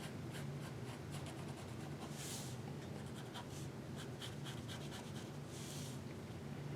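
Drawing strokes on paper: many short, scratchy strokes, with two longer hissing strokes about two and five and a half seconds in.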